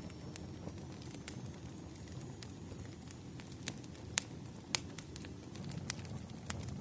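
Wood fire crackling: irregular sharp pops and snaps over a steady low rumble, with a couple of louder pops in the middle.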